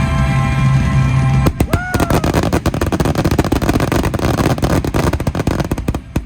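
Loud show music with held tones, then from about a second and a half in a dense, rapid crackling of fireworks over the music, with a brief whistling glide, stopping sharply just before the end.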